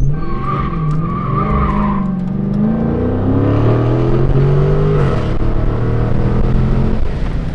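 Dodge Scat Pack V8 accelerating, its engine note rising steadily for about five seconds and then holding, with the tyres squealing for the first couple of seconds.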